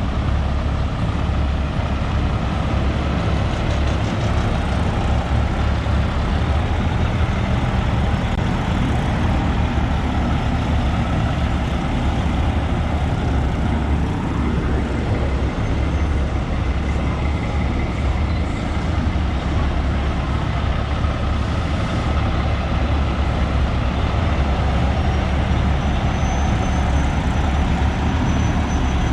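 Heavy diesel trucks running, a steady low rumble throughout.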